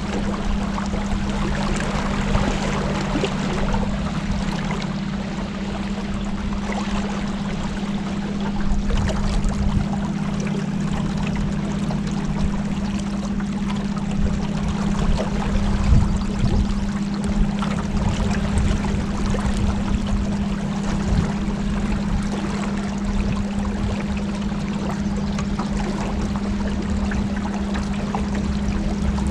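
Boat motor running steadily with a constant hum, while water rushes and splashes along the hull as the boat cruises.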